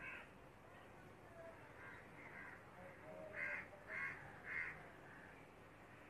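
A bird calling: a few faint calls, then three louder calls in quick succession about half a second apart, a little past the middle.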